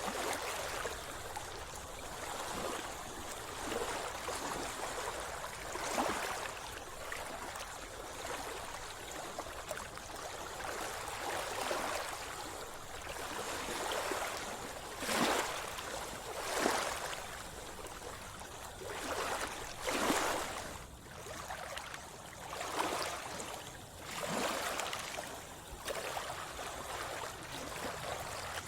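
Seawater sloshing and splashing close by as someone swims, with irregular splashes every second or two over a steady watery wash.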